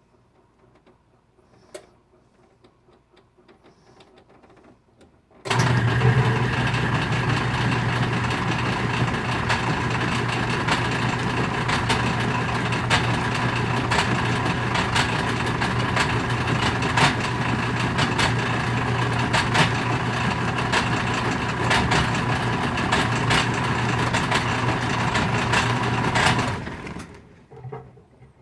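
Whirlpool direct-drive washing machine's motor and transmission starting abruptly about five seconds in and running with a steady low hum, many irregular clacks and pops over it, then stopping near the end. These are the grinding, popping noises of a washer that spins but will not drain.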